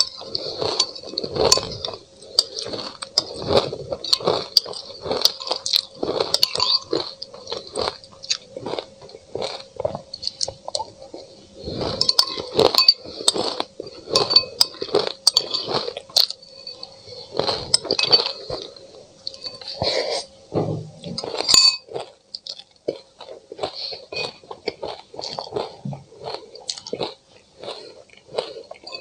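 Close-up crunching and chewing of mouthfuls of frozen, icy food mixed with sesame seeds, with many sharp cracks. A metal spoon clinks and scrapes against a ceramic bowl.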